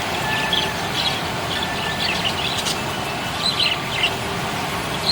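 Budgerigars chirping: many short, quick chirps in irregular clusters, over a steady background hiss.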